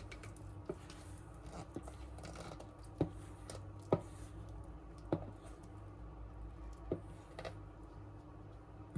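Kitchen handling sounds: about seven light, sharp knocks and taps at irregular intervals, with the loudest near the middle, over a steady low hum.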